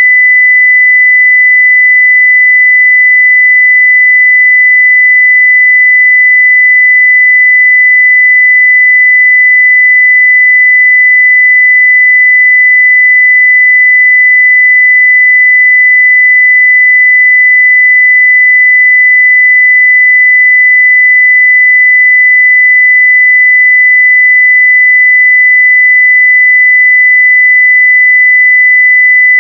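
Steady 2 kHz sine-wave test tone at full level, one unchanging pitch.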